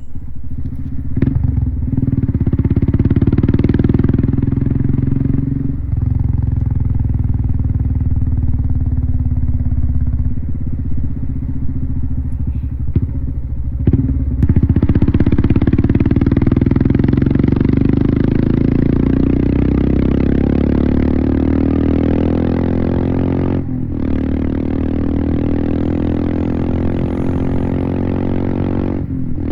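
Royal Enfield Himalayan's single-cylinder engine running on the move, with short breaks in the note as the rider changes gear. From about halfway the pitch climbs steadily under acceleration, then cuts off briefly for another shift and carries on.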